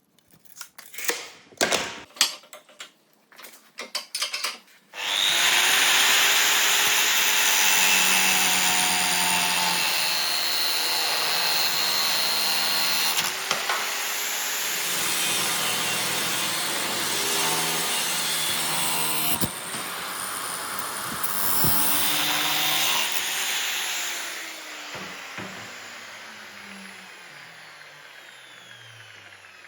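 A few knocks of handling, then an electric grinder grinding steel, its motor tone shifting under load. Near the end it is switched off and its pitch falls as it spins down.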